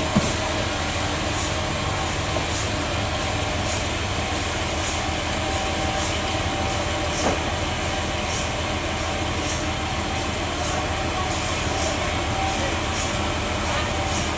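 Band sawmill machinery running steadily with a low hum and a faint, regular high ticking about once a second.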